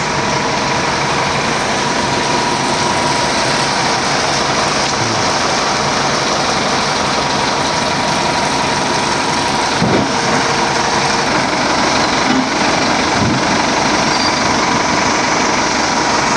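Engine running steadily, a loud, even noise with a faint high whine that fades out about four seconds in.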